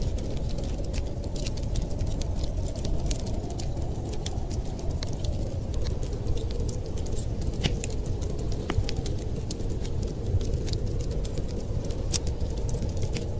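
Wood fire crackling, with frequent small sharp pops and snaps, over a steady low rumble of wind.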